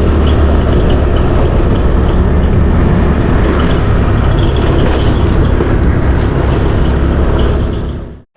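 Motorbike engine running at a steady cruising speed, with wind rushing over the microphone; the sound fades out near the end.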